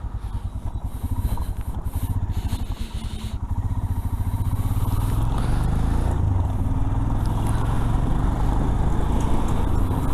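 Royal Enfield Himalayan's single-cylinder engine running at low revs with an uneven pulse, then pulling away and running louder and steadier from about three and a half seconds in. The engine is still cold, and the bike feels a little harsh.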